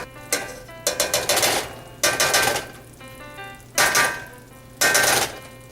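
Rice and wine being stirred in a frying pan, a run of scraping strokes of the spoon against the pan, over background music.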